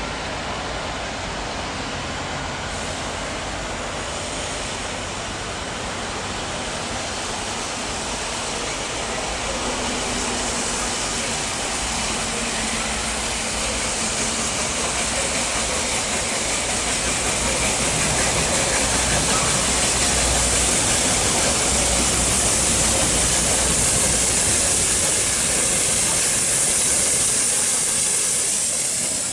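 Steam-hauled train passing: the hiss of steam and the rumble of the train swell steadily to a peak past the middle, then ease near the end.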